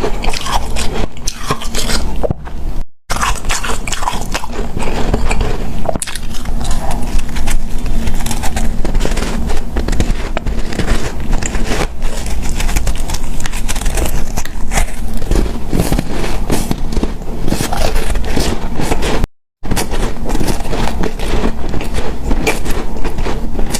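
Close-miked biting and chewing of hard, snow-like powdery ice, a dense run of crackly crunches mixed with scraping. The sound drops out briefly twice, about three seconds in and near the end.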